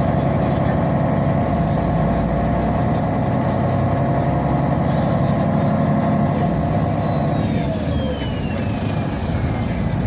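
MAN A23 articulated city bus running under way, its drivetrain giving a steady rumble with a high whine that holds level, then falls steadily in pitch over the last few seconds as the bus slows.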